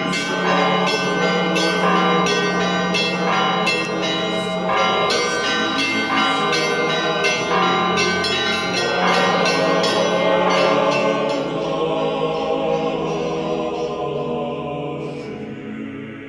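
Church bells ringing a rapid, irregular peal, with a low tone humming steadily underneath. The strikes thin out and stop near the end while the ringing dies away.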